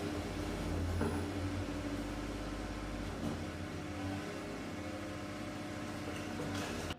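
A steady low mechanical hum with a broad hiss over it. It cuts off suddenly at the end.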